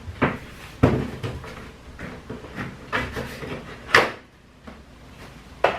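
Product packaging being handled: a series of knocks, taps and scrapes, the sharpest about a second in and about four seconds in.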